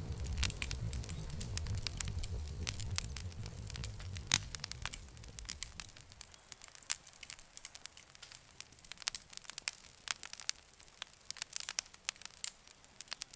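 Wood campfire crackling, with frequent sharp pops and snaps. A low rumble under it fades out about halfway through, leaving sparser crackles.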